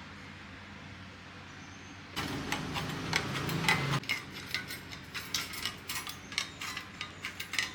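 Faint low hum, then from about two seconds in a run of irregular light clicks and metallic knocks, like small metal parts and tools being handled at a workbench.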